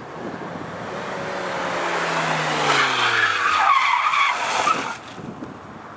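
Ford Focus RS Mk2's turbocharged five-cylinder engine through a non-resonated catless Mongoose turboback exhaust, as the car drives past: the engine note grows louder while falling in pitch, with rushing tyre and air noise, then drops away sharply about five seconds in.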